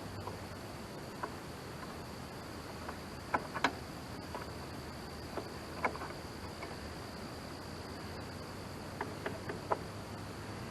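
Scattered light clicks and taps of a wrench working the positive battery terminal loose, a few at a time with pauses between, over a steady high-pitched insect-like drone.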